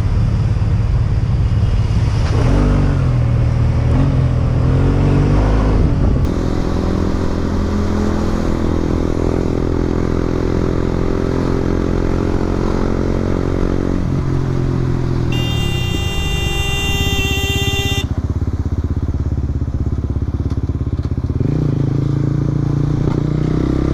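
Motorcycle engine running under wind noise, its pitch steady or shifting slowly. Partway through, a steady high-pitched tone sounds for about two and a half seconds.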